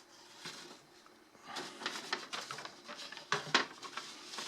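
Paper and booklets being handled: short rustles and light knocks, starting about a second and a half in after a near-quiet start.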